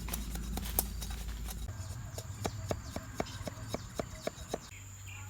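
Rapid, evenly spaced knocks on bamboo, about four a second, each with a short hollow ring, as the bamboo strips for a wau kite frame are tapped and worked with a blade.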